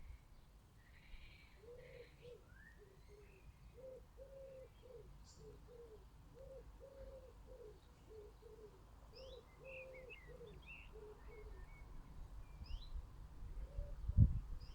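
A pigeon cooing in a long run of short, low notes, with small garden birds chirping higher over it. A low thump near the end.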